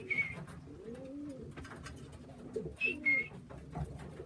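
Tippler pigeons cooing in a small loft, low rising-and-falling coos. Two pairs of short high squeaks, one at the start and one about three seconds in.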